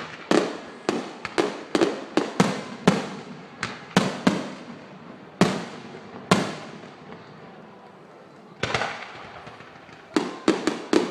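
Aerial fireworks bursting in a rapid string of sharp bangs, each fading out after the blast, then a lull with only a few shells, and a fast volley of bangs again near the end.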